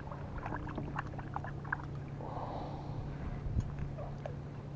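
Scattered light clicks and taps, with a short rustle a little past two seconds in, over a steady low hum: fish and gear being handled aboard a kayak.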